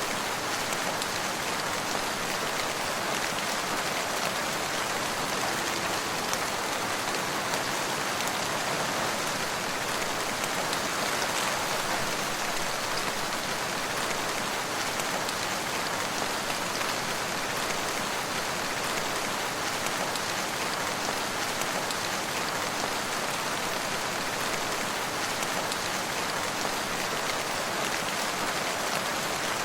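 Steady rain falling and pattering on surfaces, an even, unbroken hiss with fine drop crackle.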